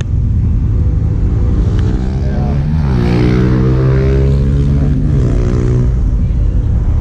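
Car engine driving past on a busy cruise route, its pitch rising about two and a half seconds in, holding, then shifting again near the six-second mark, over a constant low rumble of street traffic.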